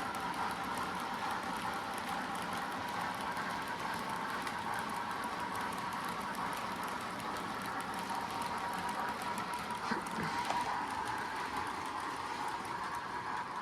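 HO scale model train running along the layout track, a steady mechanical running noise with a short sharp click about ten seconds in.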